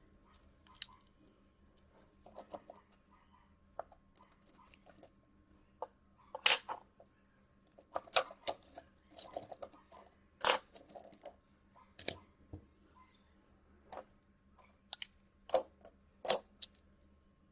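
Small tools and phone parts being handled on a work surface: irregular sharp clicks and light taps of small hard objects being picked up and set down, the loudest about halfway through.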